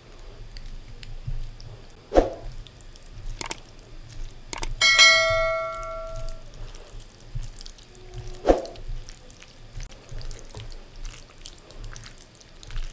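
A few clinks of steel tableware, with one strike about five seconds in that rings on for about a second and a half like a small bell: a steel plate or bowl being knocked while the meal is started.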